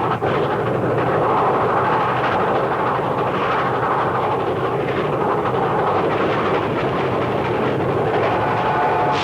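Old cartoon train sound effect: the steady, rushing noise of a running train, with a faint whistle tone coming in near the end.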